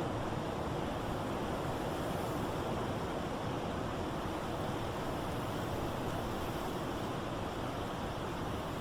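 Blizzard wind blowing in a steady, even rush with no gusts or breaks, and a faint steady tone running underneath.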